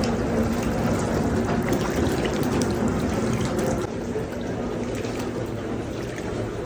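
Steady rush of running water, dropping a little in level about four seconds in.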